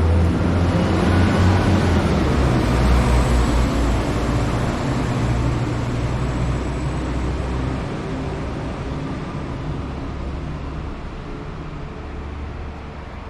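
Class 195 diesel multiple unit running past and drawing away: a steady low engine hum with wheel and rail noise that slowly fades.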